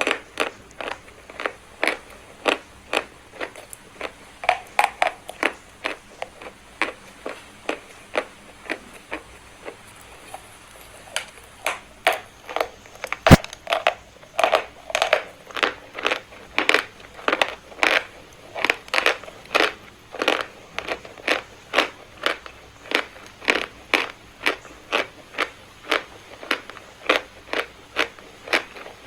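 Chalk being crushed in a steady series of crisp crunches, about one to two a second, with a short lull about a third of the way through and one sharper crack just after it.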